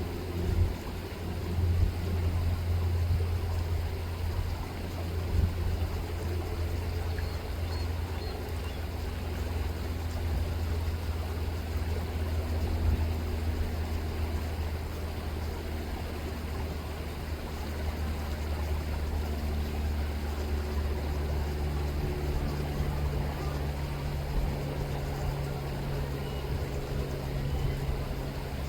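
An engine running steadily with a low hum; a second, slightly higher hum joins about three-quarters of the way in.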